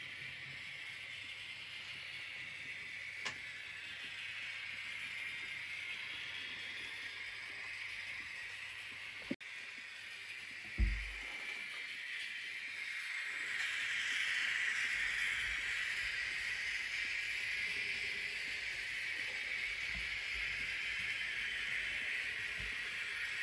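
A train running, a steady hiss of rolling noise that grows louder about halfway through. A single short low thump comes a little after ten seconds.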